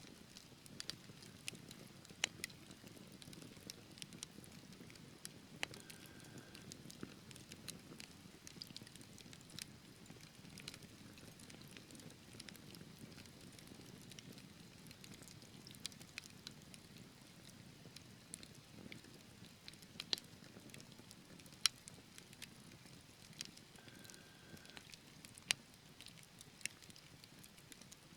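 Wood fire burning in a fireplace, crackling: irregular sharp pops and snaps from the burning logs over a low, steady rumble of the flames.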